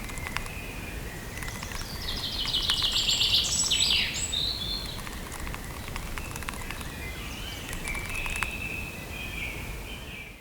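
Woodland ambience of several songbirds chirping and whistling, with a fast trill of repeated notes about three seconds in, over a steady low background rumble. The sound fades out at the very end.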